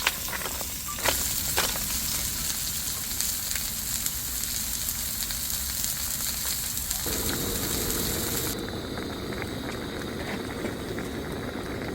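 Food sizzling as it fries in oil in a pan, with a few sharp clicks of utensils in the first two seconds. The hiss changes abruptly about seven and eight and a half seconds in.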